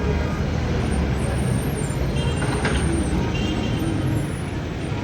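Street traffic with a heavy vehicle's engine rumbling low and steady.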